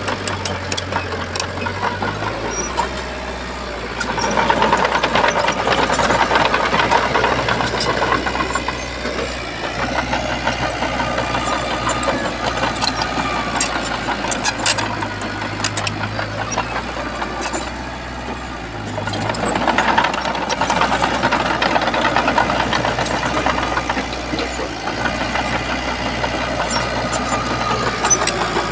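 Shantui bulldozer's diesel engine running with a steady clatter, growing louder for several seconds twice.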